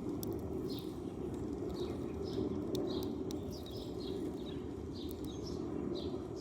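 Sparrows chirping: short, repeated chirps, about two a second, over a steady low background hum.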